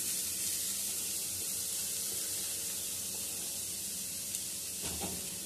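Boiled, drained grated raw papaya sizzling as it hits hot ghee in a wok, a steady hiss that slowly dies down.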